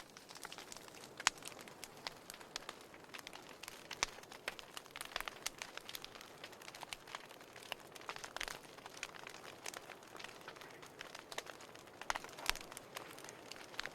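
Wood fire crackling in a fireplace: irregular sharp pops and snaps over a soft steady hiss, with a few louder snaps scattered through.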